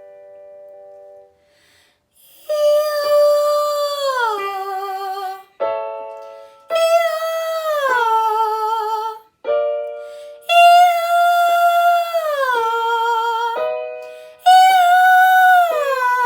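A girl's singing voice doing a vocal exercise with piano: the piano sounds a short chord, then she holds a wordless note with vibrato and glides down from it. This repeats four times, each round starting a step higher.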